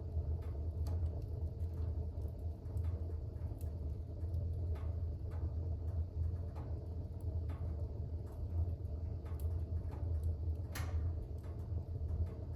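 Fire burning in a fireplace: a steady low rumble of flames with scattered crackles and pops, the loudest pop about eleven seconds in.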